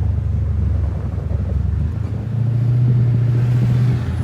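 2012 Dodge Charger R/T's 5.7-litre HEMI V8 cruising, a steady low exhaust drone through pipes with the resonator and mid-muffler deleted, heard from inside the cabin. About two seconds in, the drone settles into a louder, steadier tone.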